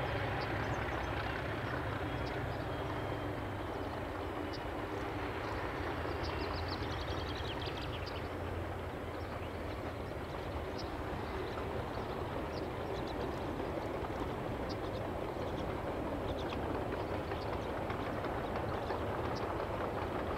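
Diesel-hauled passenger train running through a gorge: a steady rumble of engine and wheels, with faint high chirps now and then.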